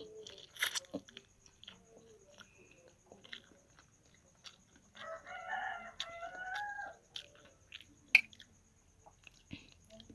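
A rooster crowing once, for about two seconds around the middle, over soft mouth clicks and chewing from someone eating noodles.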